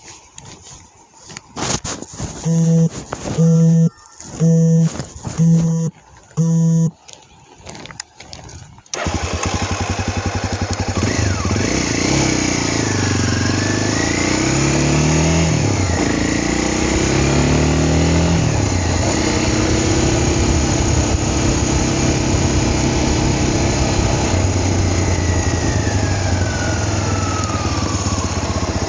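A series of short pitched bursts with gaps, then about nine seconds in a motorcycle engine starts and runs steadily, its pitch rising and falling as it is revved and ridden.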